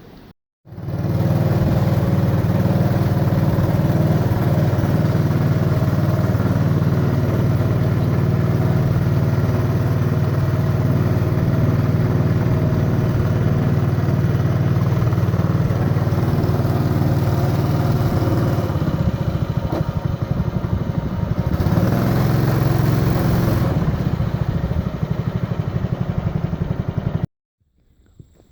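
A motor engine running steadily at close range, a loud low drone. It starts abruptly just under a second in and cuts off abruptly near the end.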